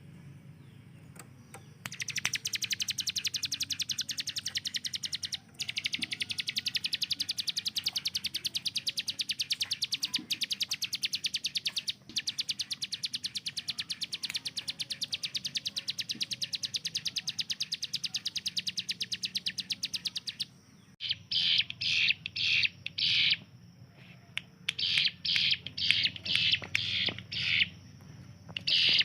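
Ciblek gunung (a prinia) singing its rapid-fire 'tembakan' song: long runs of very fast repeated high notes like machine-gun fire, then, past the two-thirds mark, loud separate short bursts.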